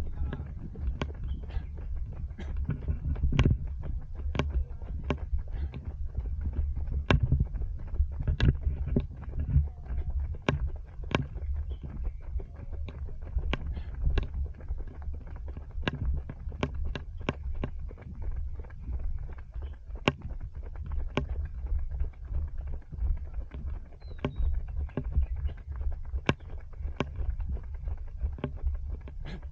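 Running footsteps on pavement, picked up by a body-worn action camera as sharp clicks about twice a second over a steady low rumble of the camera jostling and wind on its microphone.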